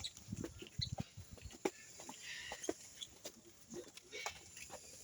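Faint calls from birds in a bird park's enclosures, with scattered short clicks and knocks.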